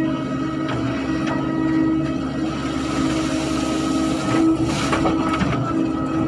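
Excavator engine running steadily under load with a held hydraulic whine, and a brief scraping burst about four to five seconds in.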